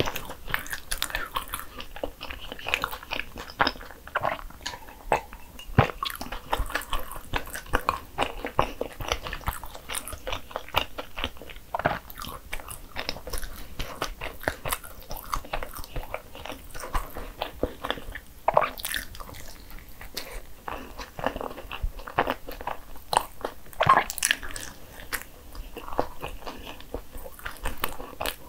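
Close-miked eating of a dense filled bagel: bites and steady chewing with many small wet clicks and crackles, a few of them louder.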